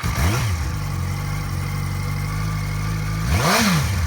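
2006 Yamaha YZF-R1's inline-four engine idling, blipped twice: a short rev just after the start and a bigger one near the end, each rising and falling back to idle within about half a second.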